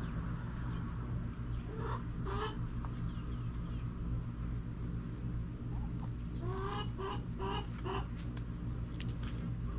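Backyard chickens clucking: a couple of short calls about two seconds in, then a quick run of about five clucks around the seven-second mark, over a steady low rumble.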